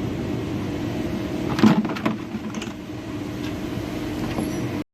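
Steady mechanical hum with a short clatter of knocks about a second and a half in; the sound cuts off abruptly just before the end.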